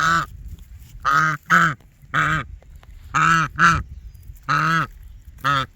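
Domestic goose honking over and over: about eight loud nasal honks, some in quick pairs, each rising and falling in pitch.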